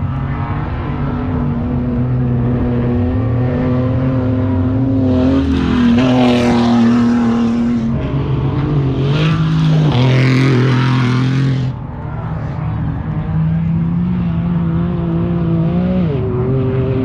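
Off-road race vehicle's engine running under changing throttle, its pitch stepping up and down. Two louder stretches of rushing noise, each a few seconds long, come around the middle.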